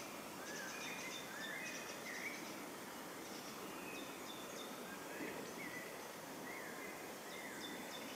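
Small birds calling over a faint steady outdoor hiss: a run of short rising whistled notes, repeated several times with a gap in the middle, and high thin chirps above them.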